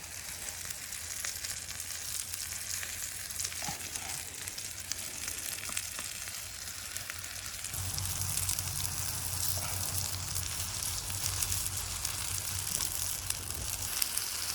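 Bread frying in oil in a pan: a steady sizzle that grows louder about eight seconds in.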